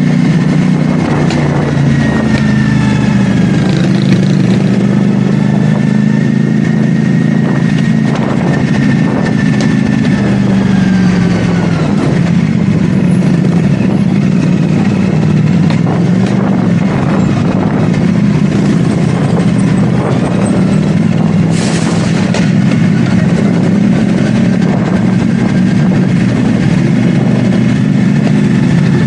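CFMoto 450SR S motorcycle's parallel-twin engine running under way, its pitch rising and falling with the throttle over steady wind and road noise. A short hiss-like burst cuts in about 22 seconds in.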